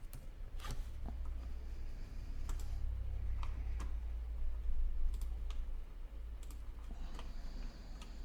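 Irregular single clicks of a computer mouse and keyboard, a few each second or so, over a steady low hum.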